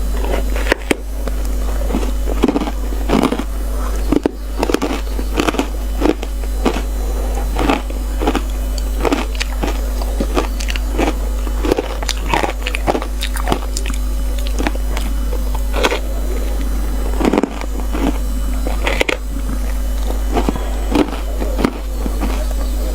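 Ice being bitten and crunched close to the microphone, with many irregular sharp crunches, a few every second. A steady low hum runs underneath.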